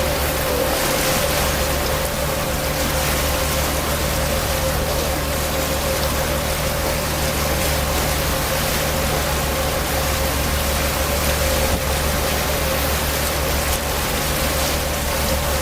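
Tour boat's engine running steadily, with a constant hum, under a loud, even rushing hiss of wind and water.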